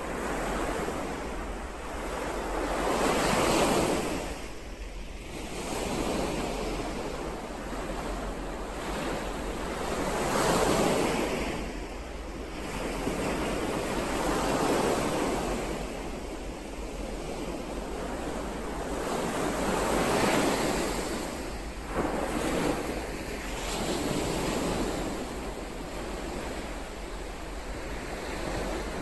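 Ocean surf: waves breaking and washing back, the sound swelling and falling about five times, one wave every four to six seconds.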